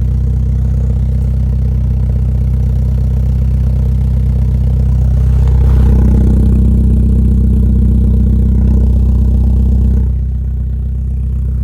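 BMW F30 320xi's B48 turbocharged four-cylinder running through a Borla aftermarket exhaust, idling steadily. About five and a half seconds in it gets louder and holds there for about four seconds, then drops back to idle.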